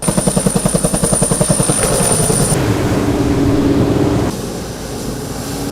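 Helicopter flying, its rotor beating fast and evenly, about ten beats a second, under a steady engine whine. The beat fades into a steadier drone after about two seconds, and the whole sound drops in level about four seconds in.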